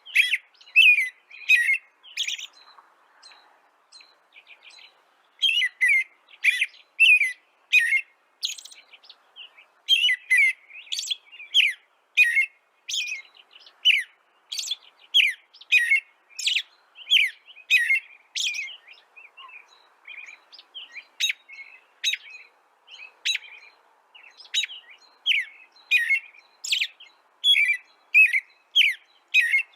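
Bird chirping: rapid runs of short, sharp, high chirps, with a couple of brief lulls.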